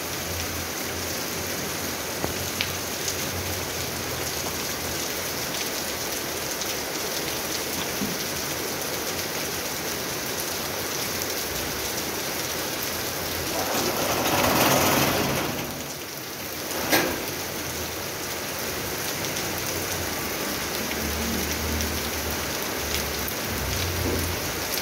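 Heavy rain falling steadily. About halfway through, a louder rushing swell lasts a couple of seconds and fades, followed by a single sharp tap.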